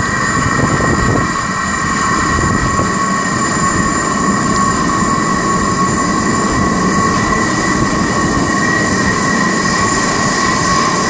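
Merseyrail Class 508 electric train approaching through the tunnel into an underground platform: a steady rumble of wheels on rail, with two steady high-pitched tones ringing above it.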